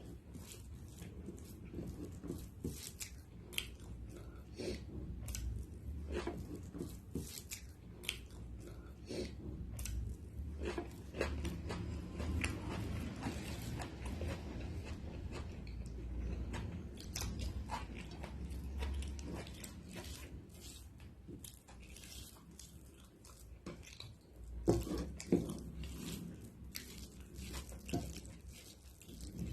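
A person biting and chewing food, with frequent short crunches and wet mouth clicks.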